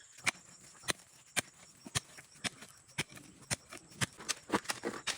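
Sharp knocks in an even rhythm, about two a second.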